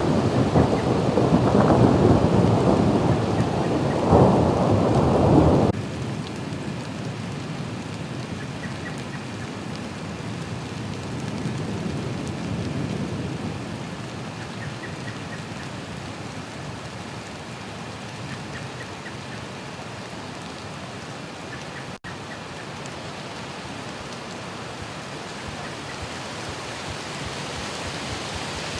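Thunder rumbling loudly over steady rain, the rumble cutting off abruptly about six seconds in; rain then keeps falling steadily, with a fainter roll of thunder around twelve seconds.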